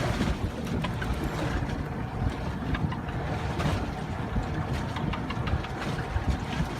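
Wind buffeting the microphone on a fishing boat, with water washing against the hull and a faint steady hum under it.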